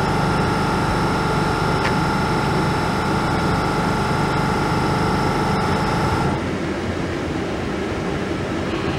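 A standing LNER Azuma (Hitachi) train humming steadily, with several high whining tones over a low hum. The whining tones cut off suddenly a little over six seconds in, leaving the low hum.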